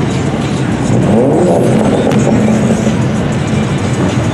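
Ford Mustang Shelby GT350's V8 running at low speed. The revs rise and fall about a second in, then hold at a steady drone.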